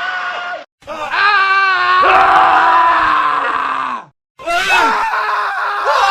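Men screaming: separate screams from different recordings cut one after another with two brief silent gaps. A short scream ends under a second in, then a long wavering scream lasts about three seconds and falls in pitch at its end, and another scream starts about four and a half seconds in.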